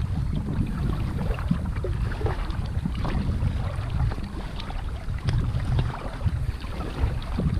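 Wind buffeting the microphone, with water splashing and lapping against a kayak as it is paddled, in a steady run of small splashes.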